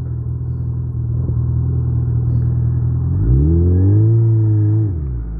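2019 Suzuki Hayabusa's inline-four engine running steadily under the rider, then revving up about three seconds in as the throttle opens, holding, and dropping back near the end.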